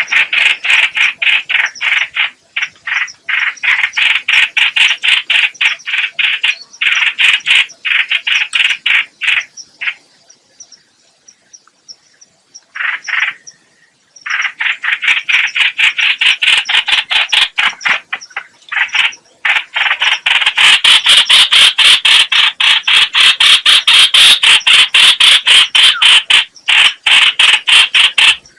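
Trao trảo (hoành hoạch) bird giving harsh, rapidly repeated chattering calls. The calls break off for a few seconds about ten seconds in, then resume and run denser and louder in the last third.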